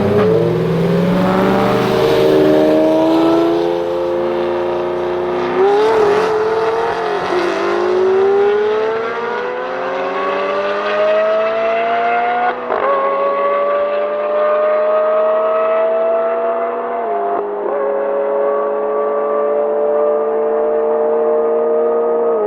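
Supercharged V8 of a G-Power-tuned BMW M3 E92 accelerating hard through the gears. The engine note climbs steadily in each gear and drops sharply at upshifts about 6, 13 and 17 seconds in and again near the end.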